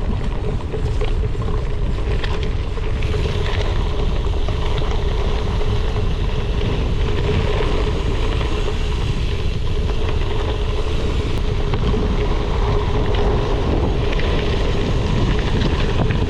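Gravel bike riding: wind buffeting the action camera's microphone over a steady rumble of tyres on the trail, with small rattles and clicks.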